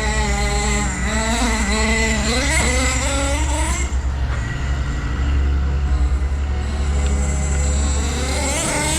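Nitro RC car's Hot Bodies .18 small-block glow engine running, its pitch rising and falling as the throttle is worked, with a steep climb in revs about three seconds in and another near the end.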